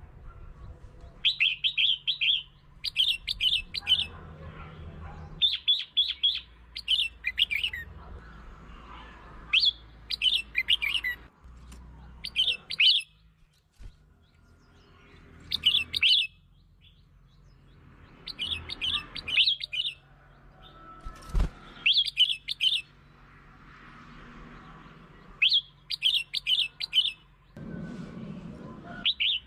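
Red-whiskered bulbul singing: short, quick song phrases repeated every second or two with brief pauses between them, over a faint low hum.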